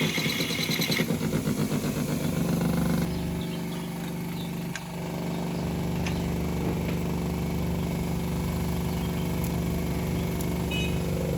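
Toyota Corolla GLI's engine running, louder with a fast pulsing for the first three seconds, then settling to a steady idle.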